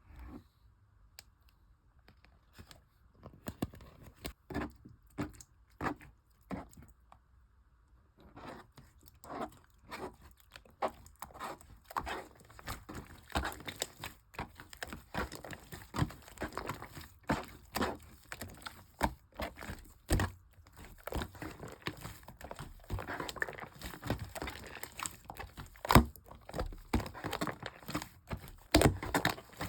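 Shaving-foam clear slime being squeezed and stretched by hand, making sticky pops and crackles: a few scattered pops at first, then from about eight seconds in a steady run of crackling pops.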